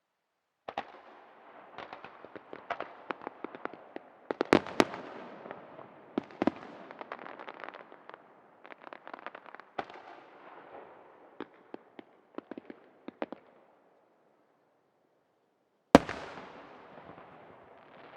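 Aerial firework shells bursting in quick succession, a dense run of sharp bangs and crackles that thins out and stops. After a short lull, one loud shell burst booms with a long echoing fade.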